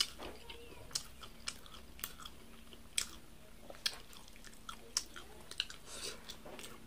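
A person chewing mouthfuls of corn kernels off the cob, with irregular sharp crunches and clicks.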